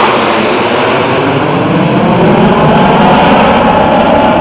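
Airplane flying past low and loud, its engine noise dropping in pitch as it goes by.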